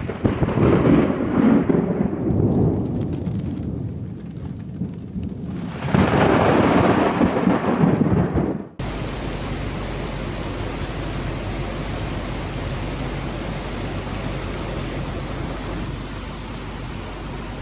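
Thunder rolling in two long rumbles, then an abrupt cut to a steady hiss of heavy rain.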